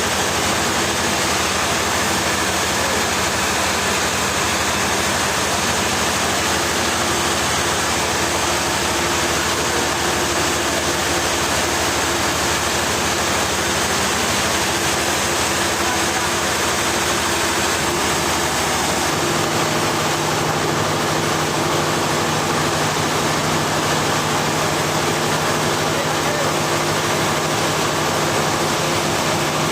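Sawmill machinery running steadily: an even wash of mechanical noise with an engine hum underneath, whose pitch shifts about two-thirds of the way through.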